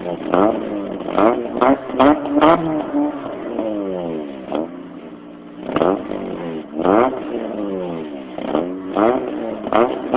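Mazda Protege's four-cylinder engine free-revved through its exhaust: a string of about ten quick throttle blips, each rising sharply in pitch and then falling back toward idle.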